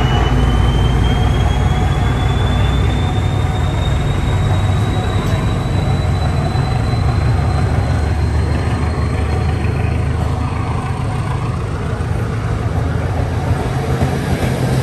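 Passenger train hauled by an SU42 diesel locomotive running along the track: a steady low rumble, with a thin whine that rises in pitch over the first several seconds and then holds.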